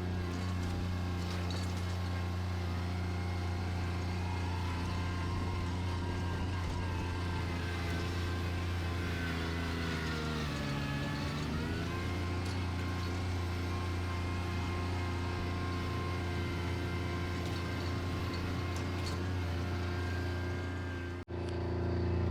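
Bobcat tractor's engine running steadily; its speed dips about halfway through, as if under load, and picks back up. The sound breaks off for an instant near the end.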